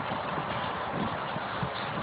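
Footsteps of someone walking on an outdoor path: soft thuds about every half second to a second, over a steady outdoor hiss.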